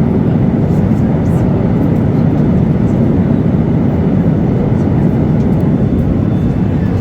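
Steady rumble of a Boeing 737-8200 in flight, heard from inside the passenger cabin: engine and airflow noise, heaviest in the low end and unchanging.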